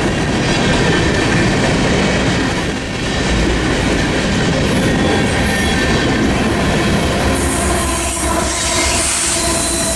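Freight train cars rolling past on the rails in a steady, continuous rumble, with thin, steady squealing tones from the wheels on the rails. A brighter hiss comes in about seven seconds in.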